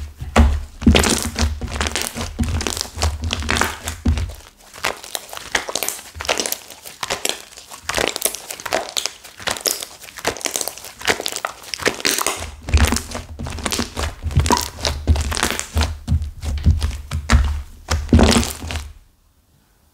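Hands kneading and squeezing a stiff clay-mixed slime, with dense crackling and popping and repeated dull thuds of it being pressed and slapped down. The clay in it has set hard, which makes it crackle. It stops abruptly near the end.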